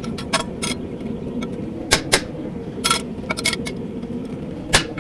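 Hammer striking a chisel to cut grooves into hot steel: about nine sharp, ringing blows at an uneven pace, some in quick pairs. A steady hum runs underneath.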